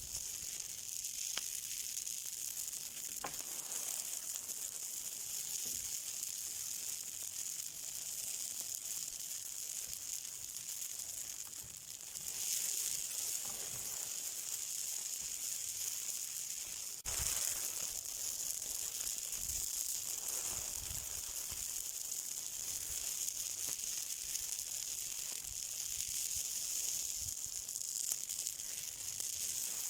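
Something burning with a steady hiss and sizzle, scattered with small crackles and pops; it grows louder about twelve seconds in, with one sharp crack at about seventeen seconds.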